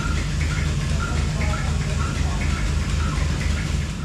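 A machine running steadily, with a low pulse about twice a second under an even hiss and short repeating higher tones.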